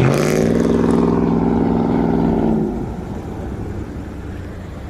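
A motor vehicle engine running with a steady hum that drops away sharply a little under three seconds in, leaving a low road rumble.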